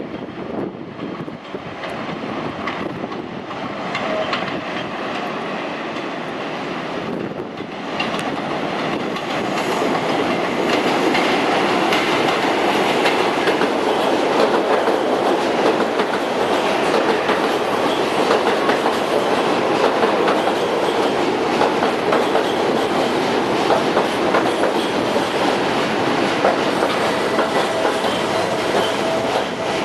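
R32 subway train running on the track, with the clickety-clack of its wheels over the rail joints; it grows louder about eight seconds in and again about ten seconds in, then holds steady.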